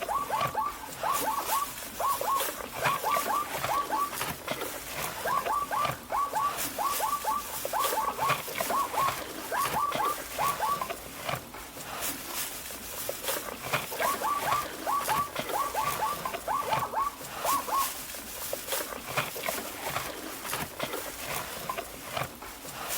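A small animal squeaking in quick runs of short, falling squeaks, about four a second, pausing for a second or two between runs, with scattered clicks and rustling.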